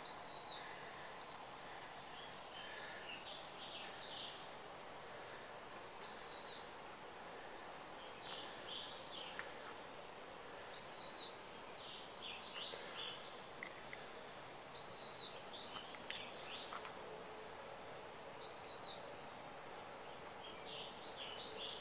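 Small songbirds chirping and calling, short high notes coming every second or two over a faint steady outdoor hiss.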